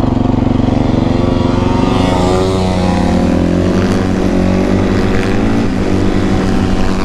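A motorcycle engine idling steadily close by, while a second dirt bike's engine revs up and down, its pitch rising and falling several times from about a second and a half in as it accelerates for a wheelie.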